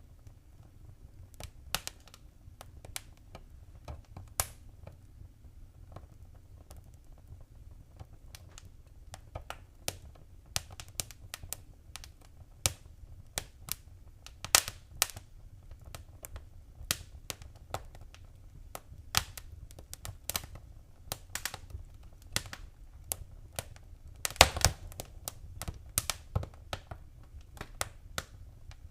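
Wood fire crackling in a fireplace: irregular sharp pops and snaps over a low steady rumble, with a burst of louder pops near the end.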